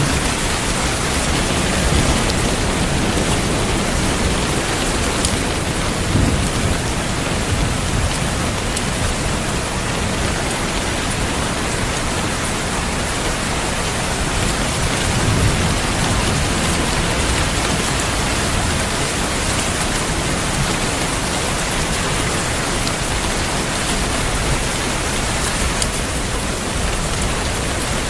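Steady rain falling, with low rolling rumbles of distant thunder swelling up near the start, about six seconds in, and again around fifteen seconds in.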